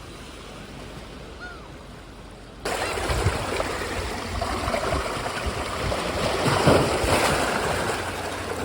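Sea water washing and surging against the shore, cutting in abruptly a little under three seconds in after a quieter hiss, swelling loudest near seven seconds, with low thumps underneath.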